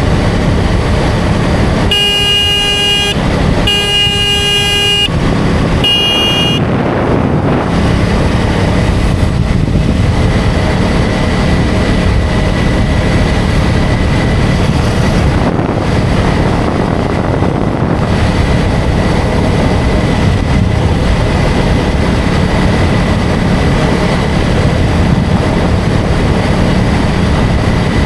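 Steady engine and wind rush of a KTM Duke 250 single-cylinder motorcycle riding on the highway. About two seconds in, a vehicle horn sounds three times: two blasts of about a second each, then a short toot.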